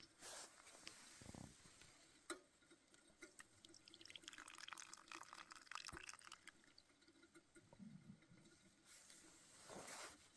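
Near silence, with faint scattered small clicks and a soft rustle.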